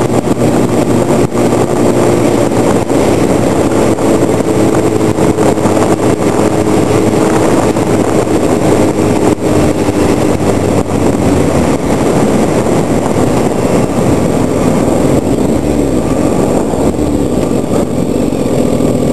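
Sportbike engine running at a fairly steady speed while riding, with its pitch shifting a little in the second half, under a steady rush of wind and road noise.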